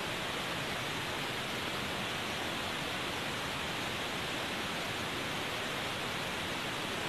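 A steady, even hiss that does not change, with no calls, knocks or other distinct sounds in it.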